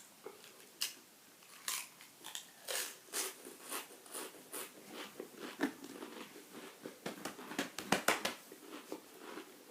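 A mouthful of six Pringles crisps being crunched and chewed: a run of irregular sharp crunches, loudest about eight seconds in.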